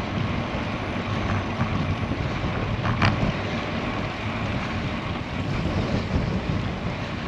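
Steady wind noise buffeting the microphone of a road bicycle riding into a strong headwind, with the rush of the bike rolling on the road beneath it. A single short click about three seconds in.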